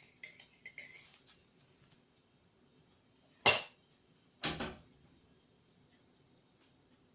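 Kitchen crockery and cutlery clattering: a few light clinks in the first second, then a loud clatter about three and a half seconds in and another a second later, followed by quiet.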